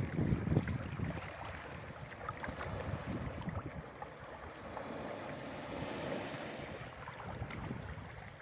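Wind buffeting the microphone, strongest in the first second, over water splashing and lapping around a small foam canoe as it is paddled. The outboard is not running.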